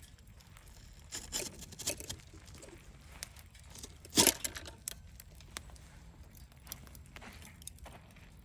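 Irregular crackles and snaps of dry material, with one loud crack about four seconds in.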